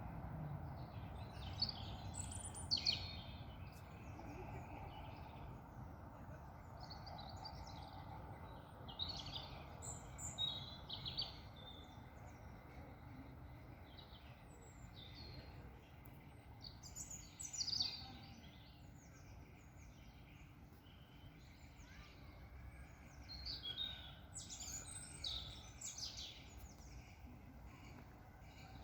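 Wild birds chirping and singing, short scattered calls coming every second or two, over a faint steady background hum of open-air noise.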